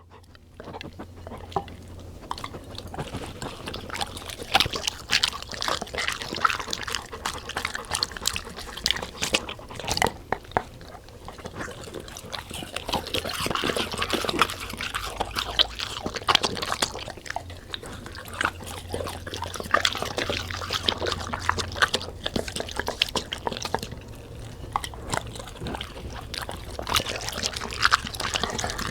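A golden retriever and a Labrador eating: wet chewing, smacking and licking with many quick irregular clicks, over a steady low hum.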